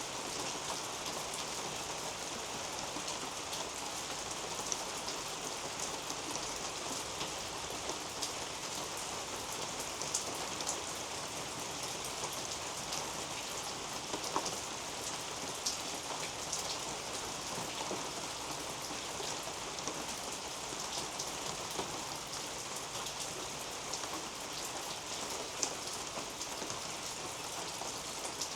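Steady rain falling on garden leaves and soil, with scattered louder single drops striking close by.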